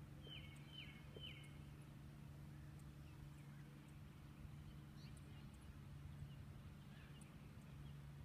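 Near silence with a faint steady low hum. Three quick high chirps, most likely from a bird, come close together about half a second in.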